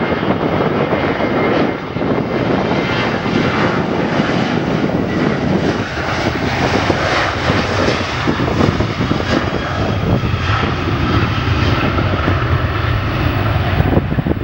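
Jet airliner's engines running loud and steady at close range.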